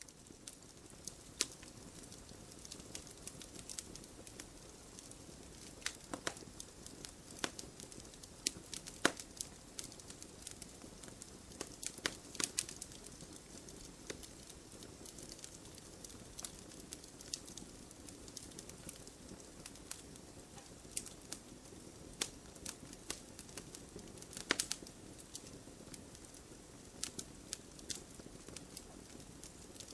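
Wood fire burning, with a soft steady hiss and irregular sharp crackles and pops; a few louder snaps stand out, about 6, 9, 12 and 24 seconds in.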